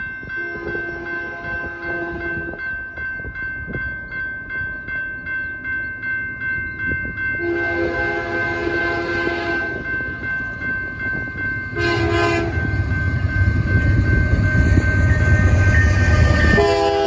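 Freight locomotive air horn sounding the grade-crossing signal, long, long, short, long, over the rhythmic ringing of the crossing's warning bells. The train's low rumble grows louder from about the short blast onward as it closes on the crossing.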